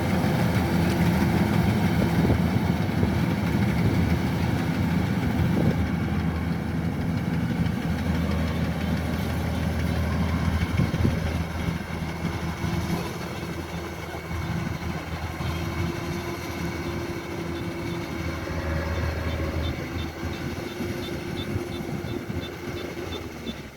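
Kubota DC-105X combine harvester's diesel engine running steadily while harvesting rice, with a steady engine hum that grows fainter in the second half.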